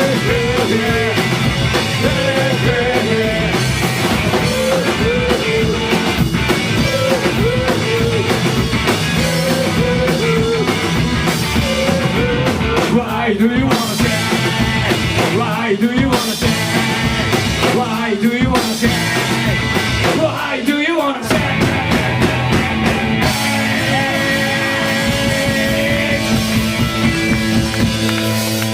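Live garage-rock band, with distorted electric guitars, bass and drums, playing loud with some sung or shouted vocals. Around two-thirds of the way in the drumming drops away and the guitars ring on in long held chords.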